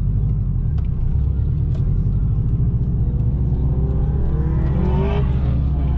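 Subaru Impreza WRX's turbocharged flat-four engine running under way, its pitch climbing as the car accelerates and dropping back about five seconds in.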